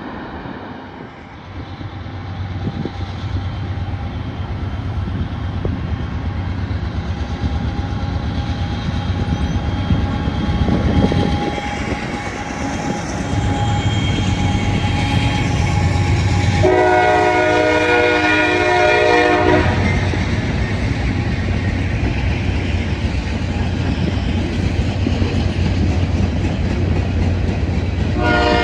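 Approaching train with a diesel locomotive, its low rumble building over the first few seconds. Past the middle the locomotive's air horn sounds one chord of several notes for about three seconds, and it starts blowing again at the very end.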